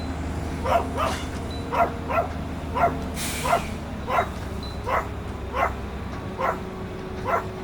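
Dog barking over and over in short, even barks, about one and a half a second, over a steady low hum.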